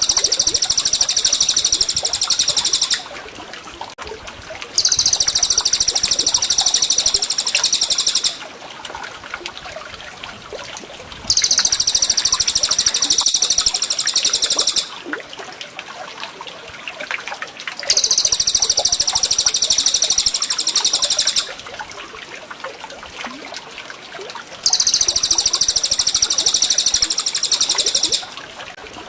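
High, rapid trilling songbird song, repeated five times in identical bursts of about three and a half seconds every six and a half seconds, over a steady trickle of running water.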